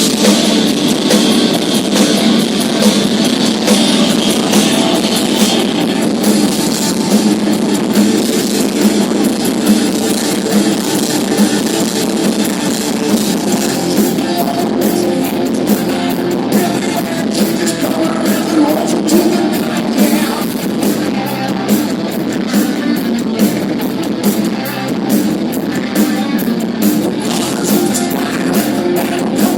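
Hard rock band playing live, with electric guitar and drums; the drum hits stand out more plainly from about halfway through.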